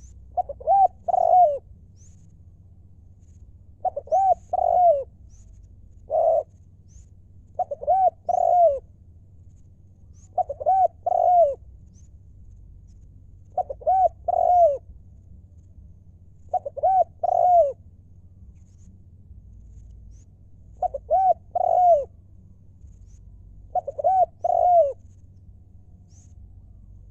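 Spotted dove cooing: a short phrase of two or three coos, repeated about every three seconds.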